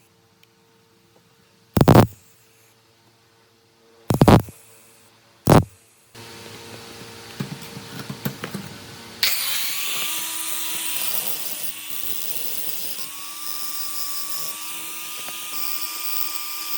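Three sharp knocks on metal, then some scattered clicks. About nine seconds in, a small electric power tool starts and runs steadily with a high whine.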